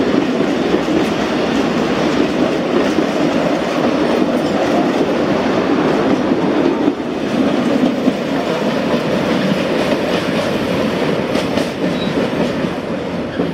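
Freight train of empty ammonia tank wagons rolling past at close range, a steady noise of steel wheels on the rails. It grows slightly quieter after about seven seconds as the last wagon goes by and the train moves away.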